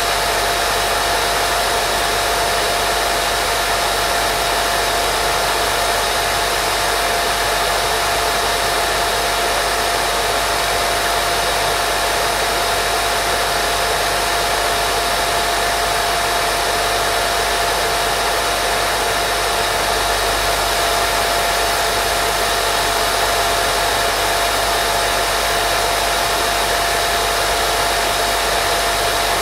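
Steady white noise for baby sleep: an even, unbroken hiss with a steady tone running through it.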